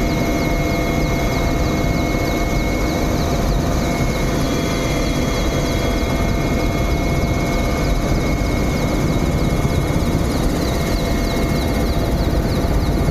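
Helicopter running, a loud steady rotor and turbine noise with a few constant tones through it.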